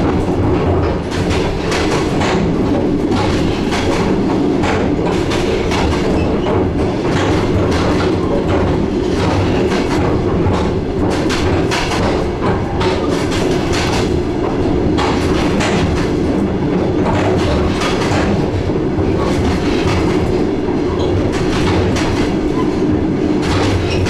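Steady rolling rumble heard on board a DR1A diesel multiple unit in motion, with the wheels clacking over rail joints again and again.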